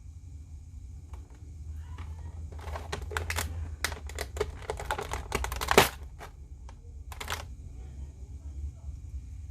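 Quick irregular clicks and crinkles of an action figure's plastic packaging being handled, with one sharper click just before the middle and a short second group a little later, over a low steady hum.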